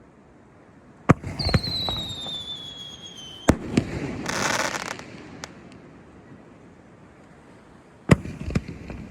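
Fireworks going off. There is a bang about a second in, then a whistle that falls slowly in pitch for about two seconds, another bang, a short hiss, and two more bangs close together near the end.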